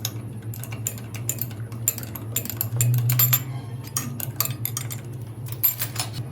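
Metal tools and parts clinking and tapping irregularly, many short knocks, over a steady low hum that swells briefly about three seconds in.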